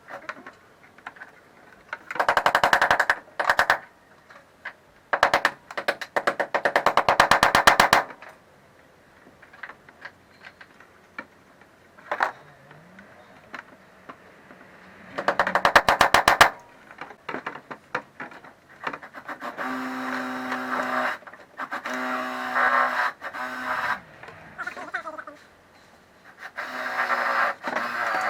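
Several one- to two-second bursts of rapid mechanical rattling from a workshop tool. Later, a small tool motor hums steadily in short spells.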